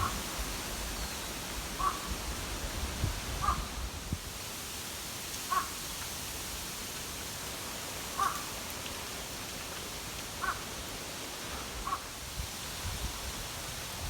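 A bird giving short calls about eight times at uneven intervals of one to two and a half seconds, over a steady background hiss.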